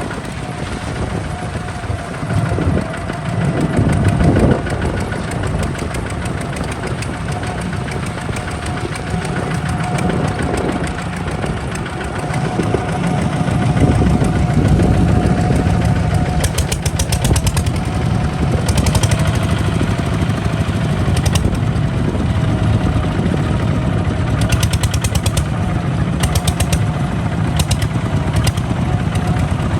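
Kubota RT140 DI single-cylinder diesel engine of a hand tractor running steadily with a diesel clatter, getting louder about halfway through.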